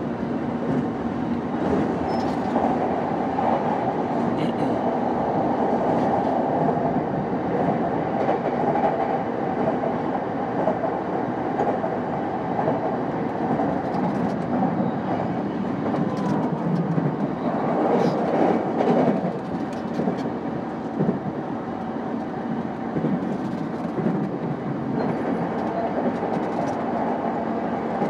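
JR East E233 series 5000 electric commuter train running at speed, heard from inside the car: a steady rumble of wheels on rail with a constant low hum, briefly a little louder about 18 seconds in.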